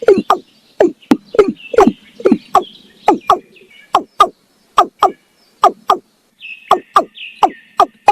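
Male watercock calling: a rapid series of short, sharp, downward-sweeping notes, about two to three a second, its territorial breeding call.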